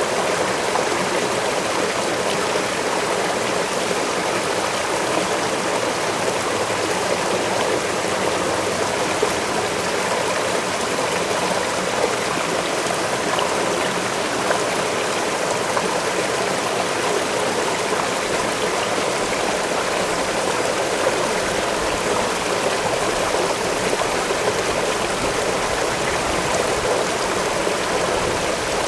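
Waterfall and forest stream: a steady, even rush of falling and flowing water, with a few brief louder splashes.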